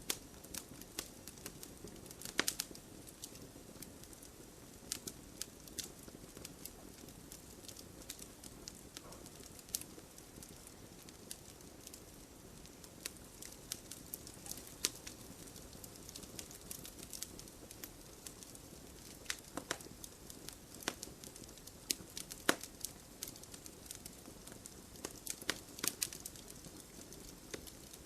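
Wood campfire crackling: irregular sharp snaps and pops, a few louder than the rest, over a steady low hiss of burning.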